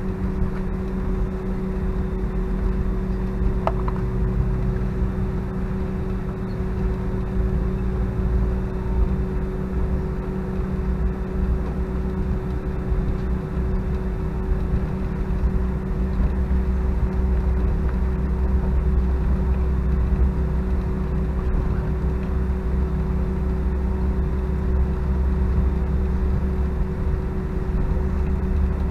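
Airbus A319 cabin noise just before departure: its IAE V2500 engines hum at two steady pitches over a low rumble, and the rumble grows stronger from about halfway through.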